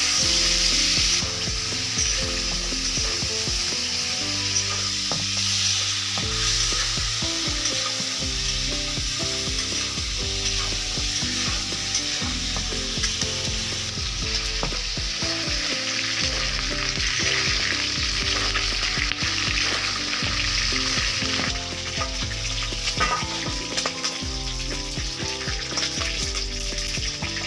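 Chicken leg pieces frying in hot oil in a pan: a steady sizzle, with occasional clicks of stirring.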